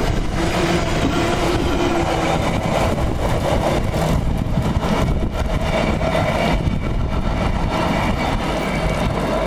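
Container freight train's wagons passing close by at speed, a loud steady rail noise; the last wagon goes by a few seconds in and the train's noise carries on as it draws away.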